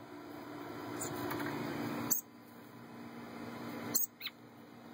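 A few short, high chirps from young songbirds in an aviary, one of them falling in pitch, over a hiss that swells and cuts off suddenly twice.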